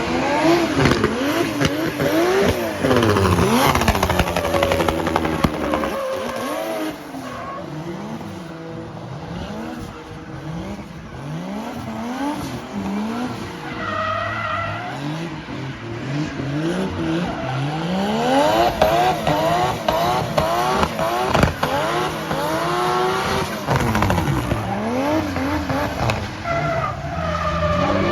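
Toyota Soarer's 1JZ straight-six revving up and down again and again through a drift, with sharp pops and bangs from its anti-lag system and tyres squealing. It drops quieter about six seconds in and grows louder again past the halfway point.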